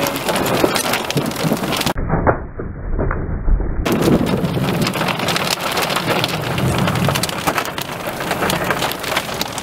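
Heavy rain pelting down in a dense patter of drops. About two seconds in, the sound turns muffled for a couple of seconds over a low rumble.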